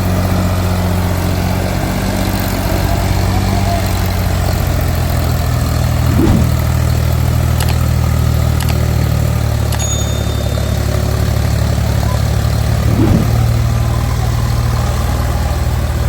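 Tractor or backhoe diesel engine running steadily at a low, even pitch, with two brief surges in revs about six and thirteen seconds in. A few light clicks sound near the middle.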